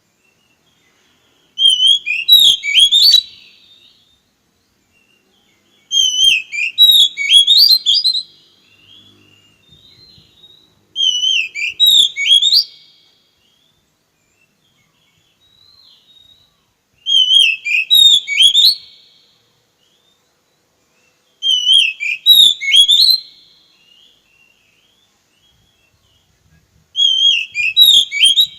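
Oriental magpie-robin (kacer) singing: loud, warbled whistled phrases of about two seconds each, six of them, coming roughly every five seconds with short pauses between.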